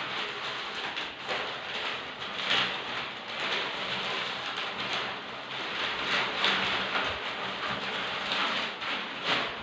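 Steady rushing hiss like heavy rain, rising and falling in strength.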